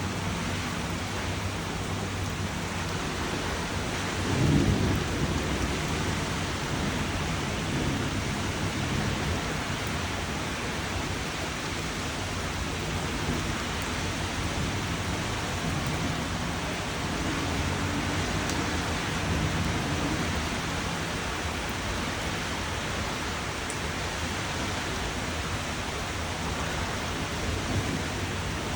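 Steady rain with rumbles of thunder, the loudest about four seconds in and fainter ones later.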